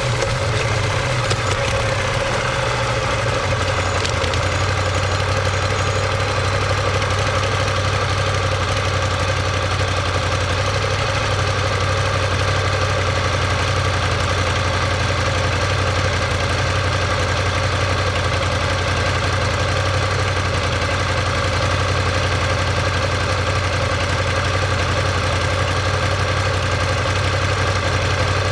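Ducati Monster 1200S's 1198 cc L-twin engine idling steadily, its exhaust note even and unchanging.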